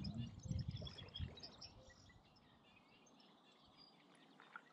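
Small birds chirping and singing, a scatter of short high calls, with low rumbling bumps in the first second or so.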